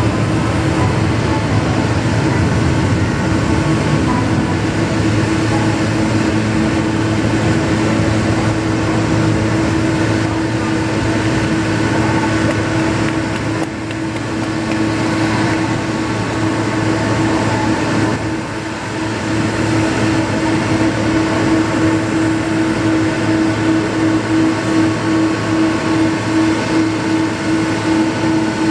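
Boeing 777-200 jet engines running: a loud, steady rumble and whine with a strong hum, which takes on a regular pulsing beat in the last few seconds.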